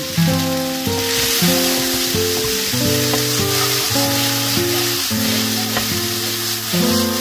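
Diced onions sizzling in a frying pan, the sizzle growing stronger about a second in, over background music of plucked guitar notes.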